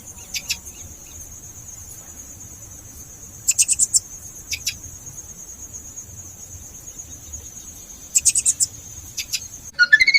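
Cricket trilling steadily at a high pitch, broken three times by louder rapid chirping bursts: near the start, about three and a half seconds in, and near the end. The trill stops shortly before the end.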